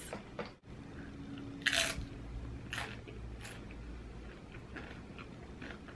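Close-up chewing of crunchy nachos made with Doritos and Hot Cheetos: a few sharp crunches, the loudest about two seconds in, with softer ones after.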